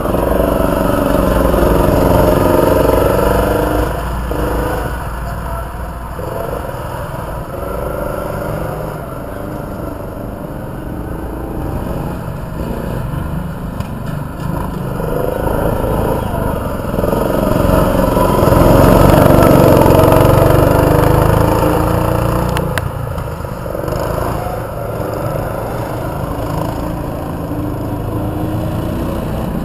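Mini sprint car engines running on the track, the pitch rising and falling as they rev. The sound swells louder twice, a few seconds in and again past the middle.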